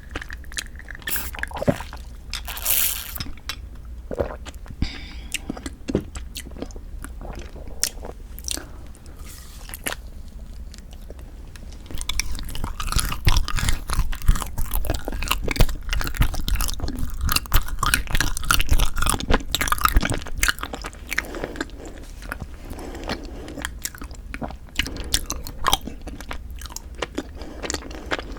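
Close-miked biting and chewing of cream cheese ice rice cake: a run of mouth clicks and smacks that grows busier and louder about twelve seconds in, then eases off after about twenty seconds.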